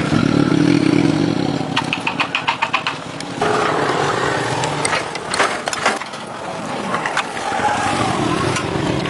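An engine running unevenly, with a burst of rapid clicking about two seconds in.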